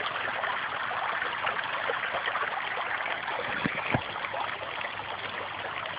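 Stream water running steadily over rocks, an even rushing, with two short knocks about two-thirds of the way in.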